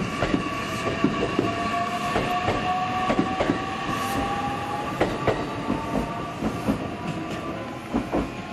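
Train moving through the station: wheels clacking over the rails in irregular sharp knocks, with a steady whine and a second tone that slowly rises in pitch.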